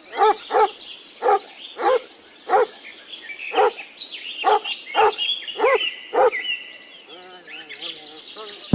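Dog barking, about ten short barks spread over six seconds, with birds chirping in the background.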